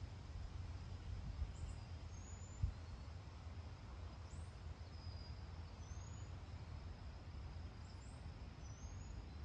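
A small bird giving short high chirps, some rising and some falling, every second or two over a steady low rumble. There is a soft thump about two and a half seconds in.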